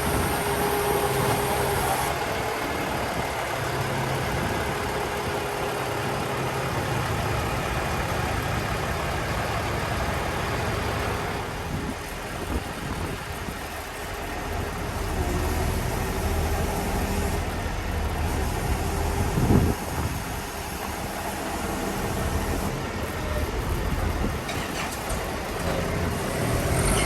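Heavy truck diesel engine running steadily at idle, with a single short knock about two-thirds of the way through.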